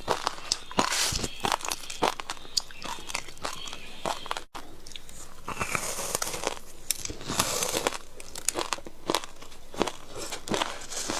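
Close-up crunching and chewing of frozen passion fruit ice: a dense, irregular run of sharp cracks and crackles as the ice is bitten and broken between the teeth. The sound cuts out for an instant about four and a half seconds in.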